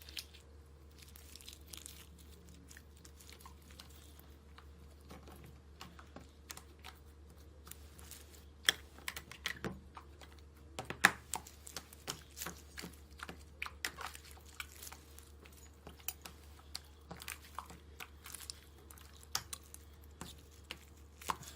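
Hands squishing and kneading a bead-filled pearl slime, giving sticky clicks, crackles and little pops, sparse at first and busier from about eight seconds in. A faint steady hum lies under it.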